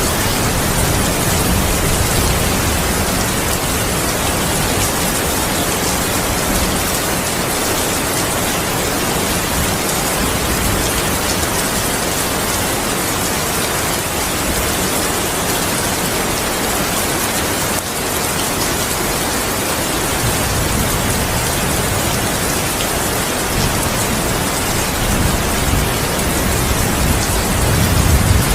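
Heavy rain falling steadily, a dense even hiss. A low rumble of thunder swells near the end.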